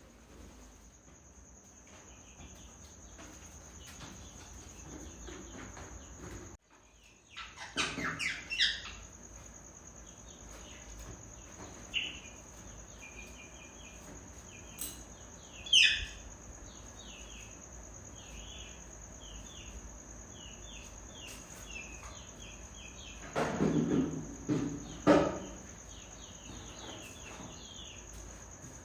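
Birds chirping in short repeated calls over a steady high insect drone, with a few louder calls about eight seconds in and again near the end.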